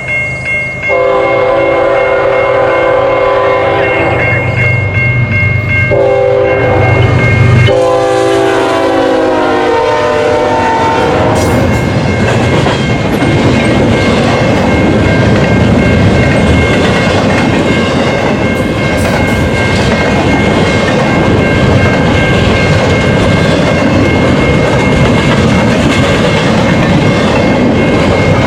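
Freight locomotive horn on a CN GE ES44AC blowing as the intermodal train approaches: two long blasts, then a third whose pitch drops as the locomotive passes. This is followed by the loud rumble and clickety-clack of the intermodal cars going by at speed.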